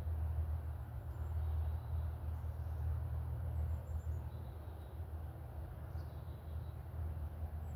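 A steady low rumble with a few faint, short high bird chirps scattered through it.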